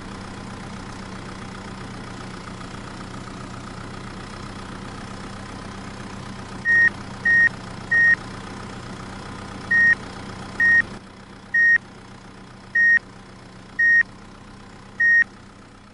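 Tractor engine running steadily, joined about 7 seconds in by a series of short, high, reversing-alarm-style beeps, nine in all, at uneven spacing. The engine sound drops noticeably quieter about 11 seconds in while the beeps go on.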